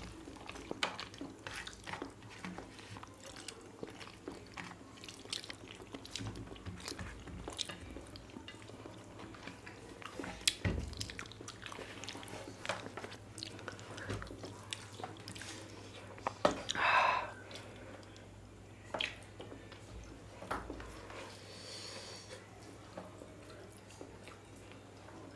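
Close-up eating sounds of rice and egg curry being chewed: a steady string of small wet clicks and smacks, with one brief louder sound about two-thirds of the way through.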